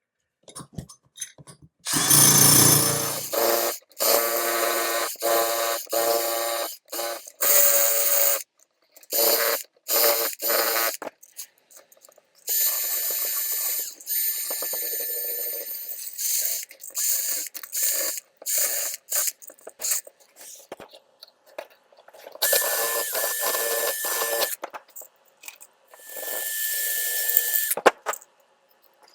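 A small handheld power tool run in repeated short bursts, each lasting from a fraction of a second to about three seconds, with a steady pitch while it runs.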